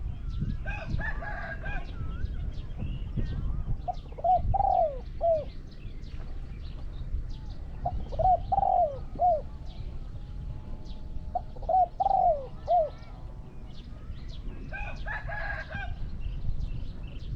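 Spotted doves cooing: a three-note phrase repeated three times, about four seconds apart, with another call near the start and again near the end. Small birds chirp throughout.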